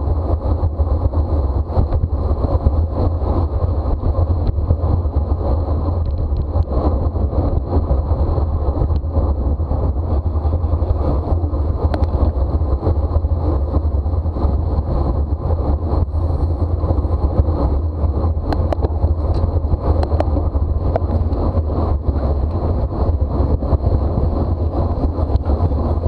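Steady rumbling wind noise buffeting the microphone of a camera on a moving racing bicycle, mixed with road noise. It runs unbroken and loud throughout.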